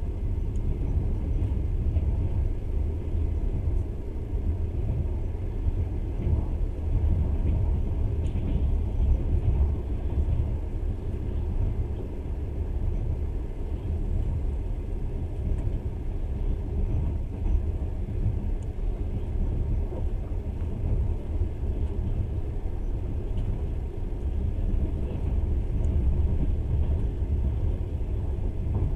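Passenger train running steadily, a continuous low rumble of the carriage and its wheels on the rails.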